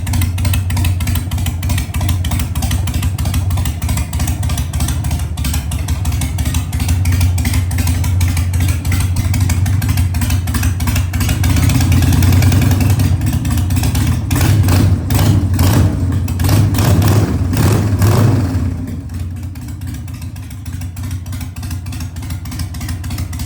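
2002 Harley-Davidson Sportster 883's air-cooled V-twin idling through slash-cut drag pipes with no mid pipe. About two-thirds of the way in it is revved in a string of quick throttle blips, then settles back to a quieter idle.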